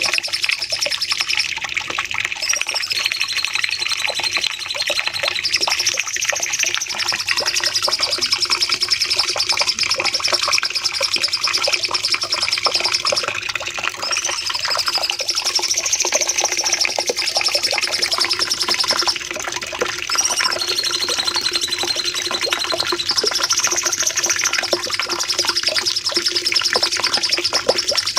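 Cucak cungkok singing a long, unbroken run of rapid chirps, the high phrases returning every several seconds. A faint steady low hum runs underneath.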